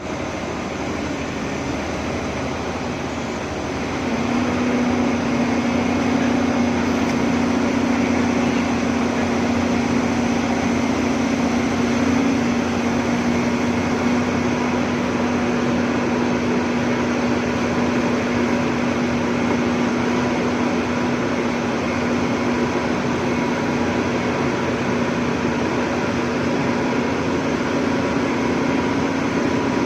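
Excavator engine running steadily. About four seconds in it gets a little louder and a steady droning tone joins it.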